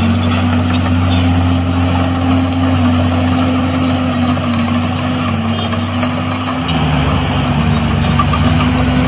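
Heavy earthmoving machinery's diesel engine running steadily under load, its pitch shifting about two-thirds of the way through as engine speed changes.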